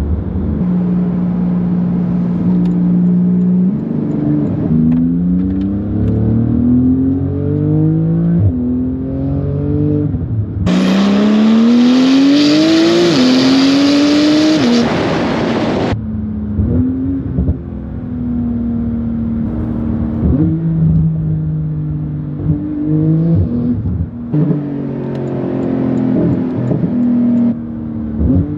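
Porsche 911 GT2 RS twin-turbo flat-six, with a valved aftermarket exhaust and high-flow cats, accelerating through the gears several times. Each pull is a rising engine note that drops back at the upshift, with steadier cruising between pulls. The loudest and harshest pull, with a strong hiss over the engine, comes around the middle.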